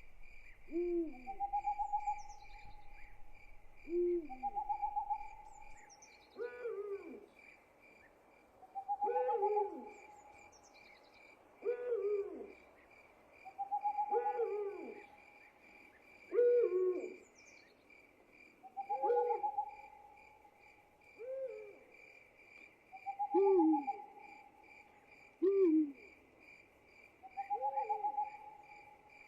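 Owl hoots repeating about every two seconds, short notes that fall in pitch alternating with a longer held note, over a steady pulsing cricket trill.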